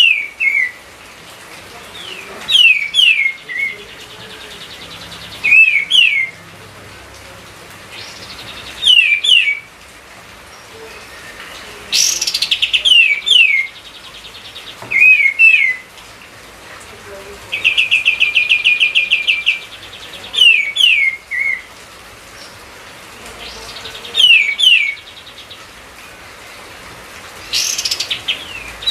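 A kapas tembak bulbul singing loudly and over and over. It gives phrases of two or three quick descending whistled notes every couple of seconds, and breaks into a rapid rattling trill twice, about twelve and eighteen seconds in.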